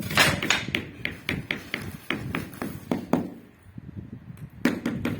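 Ceramic tiles being tapped down during laying: a run of light, sharp taps about four a second, with a brief rush of noise at the start, a lull past the middle, and louder taps resuming near the end.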